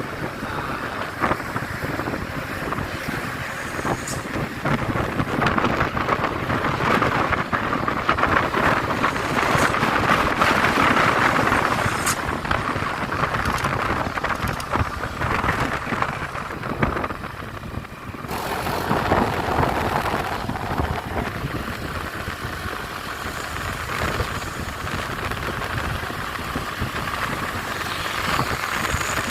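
Truck and road noise: a steady engine rumble mixed with tyre hiss. It swells to its loudest around ten seconds in, drops briefly about eighteen seconds in, then carries on.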